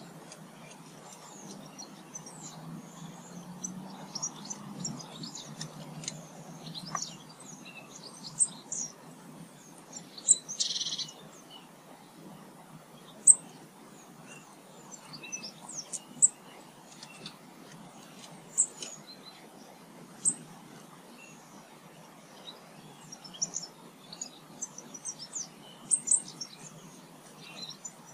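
Small garden birds chirping and calling, with many short high chirps scattered throughout and a few louder single notes. One harsher, longer call comes about ten seconds in.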